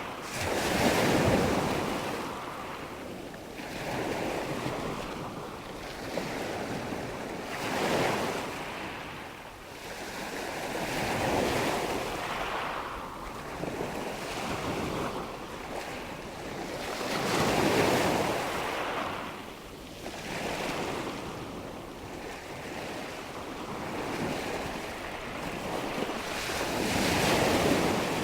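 Waves washing in, each swell of surf rising and falling away every few seconds, with wind.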